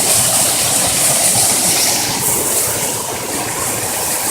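Waterfall running: a steady rush of falling water with a strong hiss.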